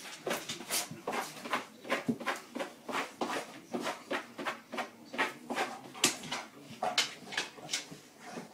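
Golden retriever mouthing and licking a lemon: a rapid, uneven run of short mouth sounds, about three or four a second.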